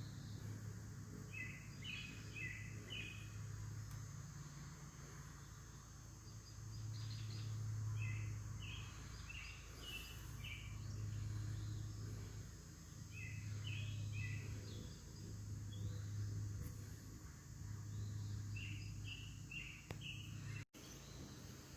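Small birds chirping in four quick clusters of several short notes each, over a low hum that swells and fades.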